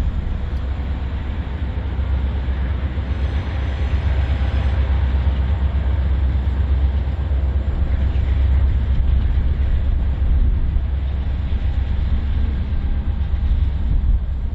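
Freight train rolling past, a steady heavy rumble.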